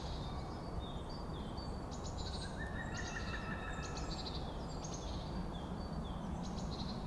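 Outdoor field ambience: many small birds chirping and twittering in short high calls, with a few longer trills, over a steady low rumble.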